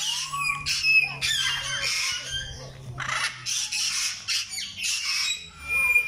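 Caged aviary birds giving a string of harsh squawks, one after another.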